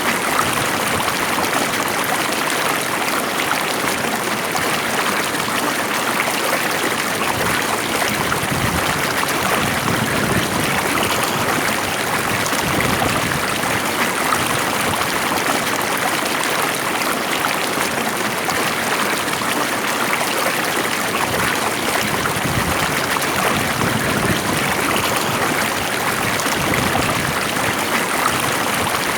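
Stream water flowing calmly and steadily, a continuous rushing, trickling sound.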